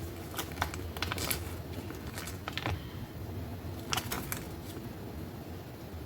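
Scattered light clicks and taps of kitchen handling during food prep, in three short clusters, over a steady low hum.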